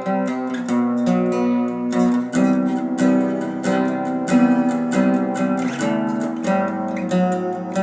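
Acoustic guitar strummed in chords with no singing, an instrumental passage of the song.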